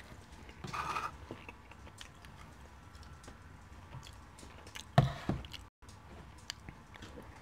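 Close-up eating sounds: a man chewing curry chicken, with small wet mouth clicks, a short rustle about a second in, and two loud thuds about five seconds in.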